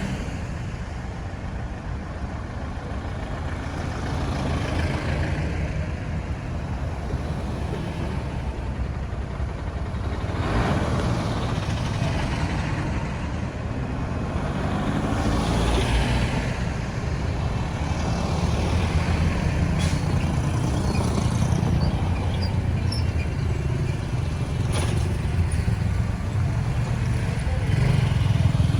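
Road traffic: a steady low engine rumble, with vehicles passing by. The loudest passes come about ten seconds in and again around fifteen seconds in.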